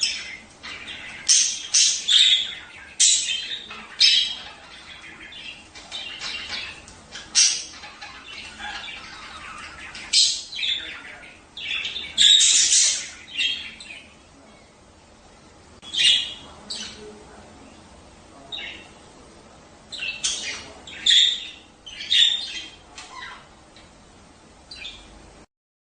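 Budgerigars chattering, short squawks and chirps coming in irregular clusters with a few quieter pauses; the sound stops abruptly near the end.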